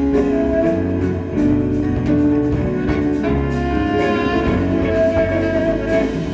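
Live band playing an instrumental passage without vocals: guitar, drums and saxophone over a steady beat.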